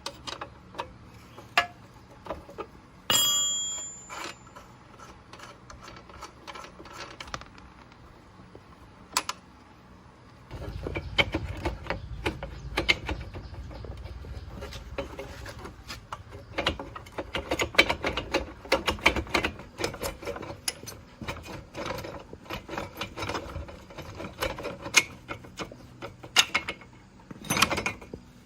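Metal hand tools working on a motorbike: a metal clink with a short ring about three seconds in, then from about ten seconds in a long, dense run of rapid metallic clicks and rattling.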